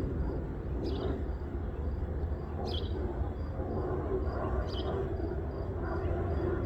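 Embraer E175 jet airliner's turbofan engines, a steady low rumble as it flies by. Short high chirps recur about every two seconds over it.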